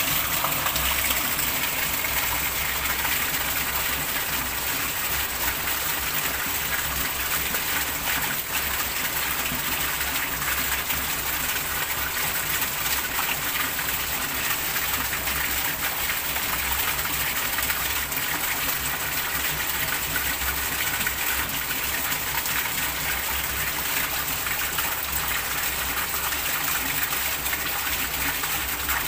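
Heavy rain falling onto the surface of a small fish pond: a dense, steady splashing hiss of drops on water that does not let up.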